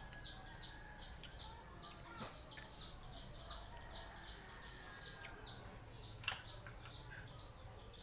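A bird chirping without pause, a quick run of high down-slurred notes about four or five a second. A single sharp click stands out about six seconds in.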